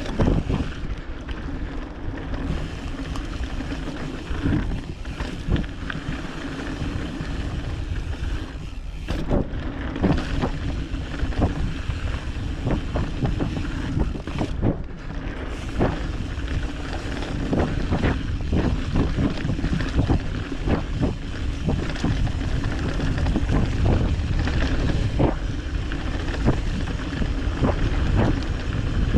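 Wind buffeting the microphone while riding over rough ground, with frequent short knocks and rattles.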